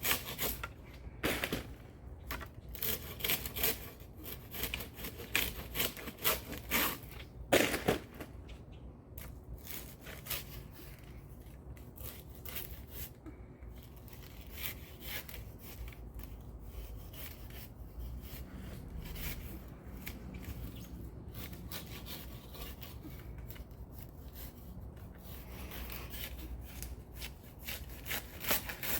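Extended pruning saw cutting through bird of paradise leaf stalks in quick rasping strokes, louder in the first eight seconds or so, then lighter and steadier.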